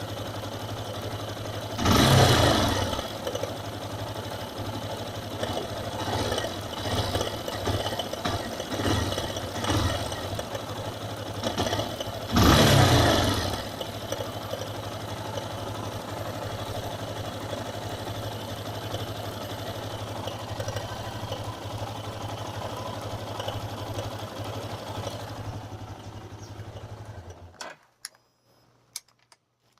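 Yamaha XTZ 250 Lander's single-cylinder engine idling, with two sharp throttle blips about 2 and 12 seconds in and a few lighter blips between. The owner is demonstrating a noise it makes at idle. The engine is switched off near the end, followed by a few faint clicks.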